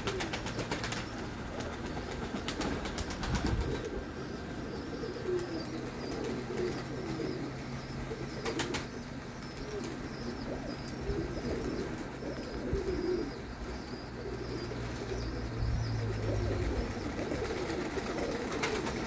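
Domestic pigeons cooing again and again, over a low steady hum, with a few sharp clicks near the start and once about halfway through.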